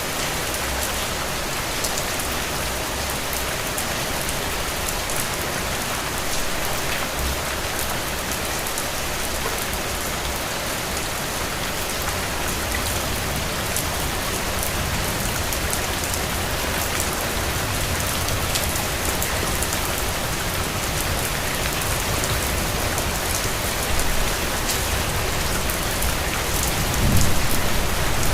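Steady rain falling on hard surfaces: a dense, even hiss with scattered sharp drop ticks. A low rumble swells near the end.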